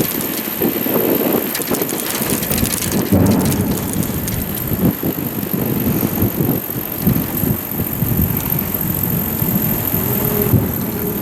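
A bicycle ridden over wet streets just after a typhoon: a steady hiss of tyres on wet pavement, with wind buffeting the GoPro's microphone in irregular low thumps.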